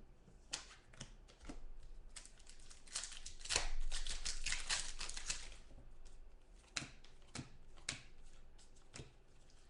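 Light scattered clicks and taps, with a couple of seconds of dense rustling about three to five seconds in, from trading cards and packs being handled.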